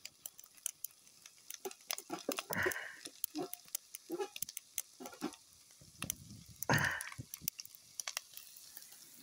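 Corned beef hash sizzling in a cast iron skillet over a small wood-burning camp stove, with scattered quick pops and crackles. Twice, about two and a half seconds in and again near seven seconds, a louder scrape as sticks of wood are pushed into the stove's fuel opening.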